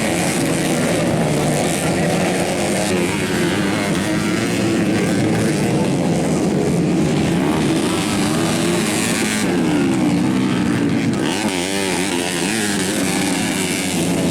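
Engines of modified underbone racing motorcycles, up to 250 cc, revving hard together, their pitch rising and falling as the riders work the throttles.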